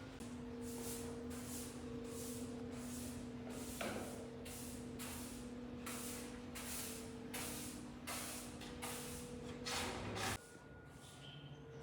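Repeated short hissing strokes, about two a second, over a steady motor hum. The hum and the strokes stop about ten seconds in.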